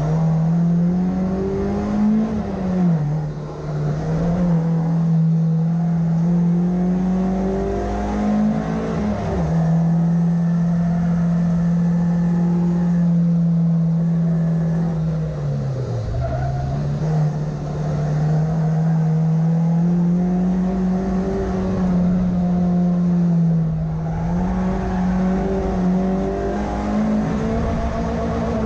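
Rear-wheel-drive race car's engine, heard from inside the cabin, driven hard around a circuit. The revs climb and drop sharply again and again, with a few longer stretches held steady.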